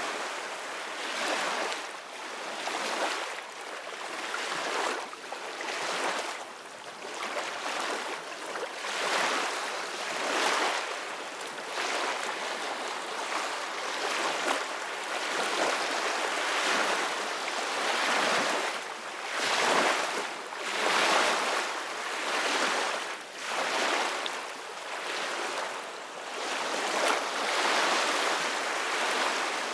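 Ocean waves washing in, a steady hiss of surf that swells and ebbs every second or two.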